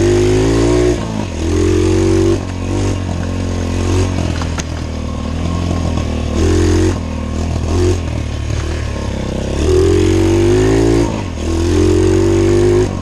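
Pit bike engine revving in repeated throttle bursts, about five times, each climbing in pitch and then dropping back as the throttle closes.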